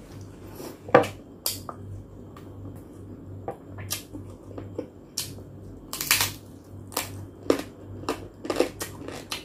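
Chewing and crunching of crispy lechon pata (roast pork leg) skin: irregular crackles and mouth smacks, the loudest about six seconds in.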